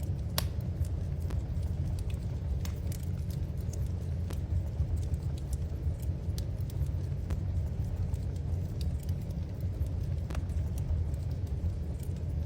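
Wood fire crackling in a fireplace: irregular sharp pops and snaps over a steady low rumble, with one louder pop about half a second in.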